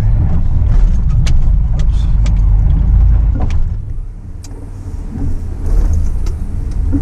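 Off-road truck driving over a rough trail: a steady low engine and drivetrain rumble with scattered clicks and knocks. The rumble eases briefly about four seconds in, then comes back.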